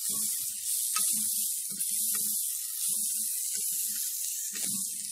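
Sausage slices and grated vegetables sizzling in a stainless steel pot as they are stirred with a silicone spatula. A steady high hiss runs under short, soft stirring sounds that come and go.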